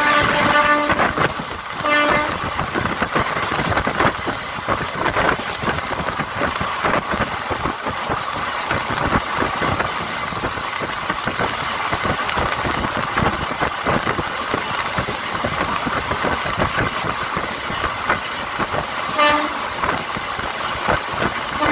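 Steady running noise of an express train at speed, heard from on board a passenger coach. A train horn sounds as the sound begins, gives a short blast about two seconds in, and another short blast near the end.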